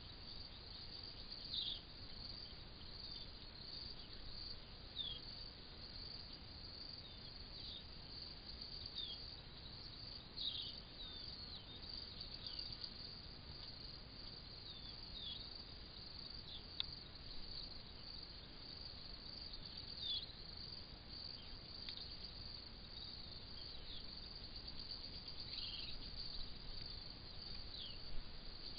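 Crickets and other insects trilling in a steady high chorus, with short falling chirps every second or two over faint low background noise.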